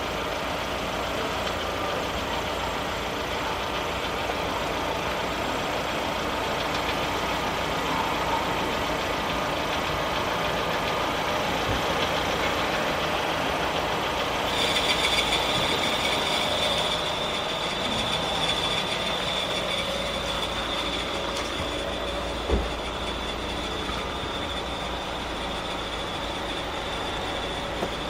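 Lada Vesta AMT engine idling in neutral; about halfway in, a high steady whistle from under the bonnet starts on its own and holds. The whistle is a clutch fault, cured by replacing the clutch, and it goes away whenever a pedal is pressed. A single short thump comes about two-thirds in.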